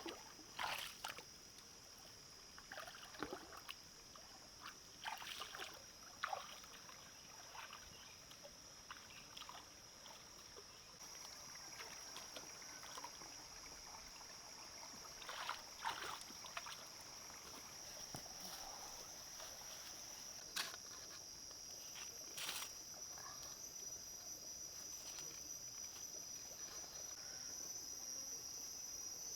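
Steady high-pitched insect chorus, the kind of crickets or cicadas heard in rainforest, growing louder about a third of the way in and again near the end. Scattered light knocks and rustles of handling come over it.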